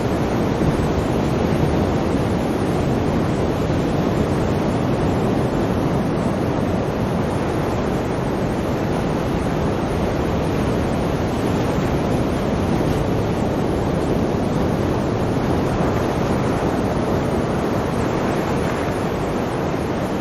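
Sea waves breaking in a continuous, steady wash of surf, with no single crash standing out.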